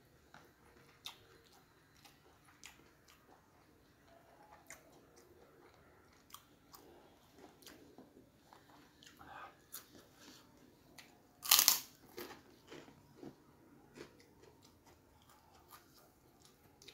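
Close-up mouth sounds of eating: scattered soft clicks and smacks of chewing, with one loud crisp crunch of a fried cracker (kerupuk mie) about eleven and a half seconds in.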